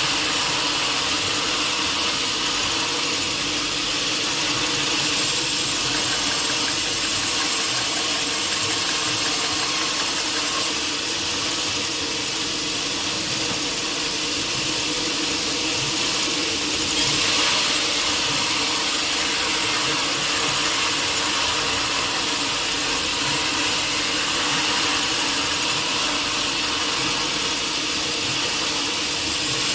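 Sawmill saw cutting through a teak log: a continuous mechanical whir with a bright hiss, which grows stronger for several seconds near the middle.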